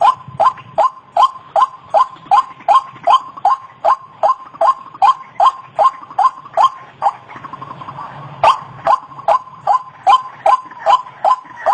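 White-breasted waterhen (ruak-ruak) calling, a fast run of short, repeated notes at about two and a half a second. About seven seconds in the notes give way to a softer rapid chatter for a second or so, then the repeated calling resumes.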